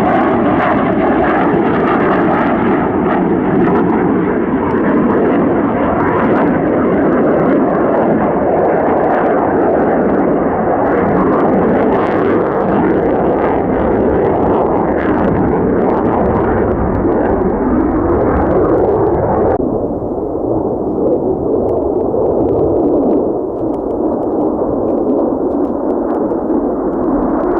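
Jet noise from an F-35A fighter's single turbofan engine in flight: a loud, continuous rushing roar with a ragged crackle in it. About twenty seconds in, the higher part of the sound cuts away abruptly and it turns duller and slightly quieter.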